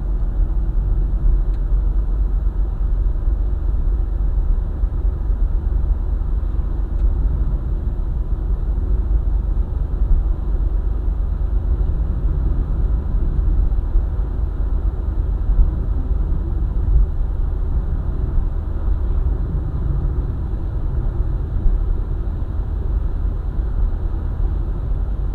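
A car driving along a highway: a steady low rumble of engine and tyres on the road.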